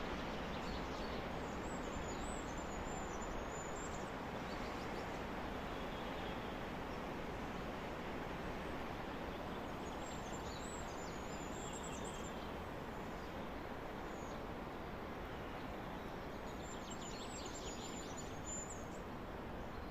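Steady wind blowing through forest trees, with a small bird singing three high, trilling phrases: one near the start, one in the middle and one near the end.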